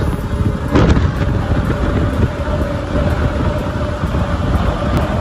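Rhaetian Railway narrow-gauge train running, heard from a coach window: a steady rumble of wheels on rail with a thin steady whine above it, and a louder clatter about a second in.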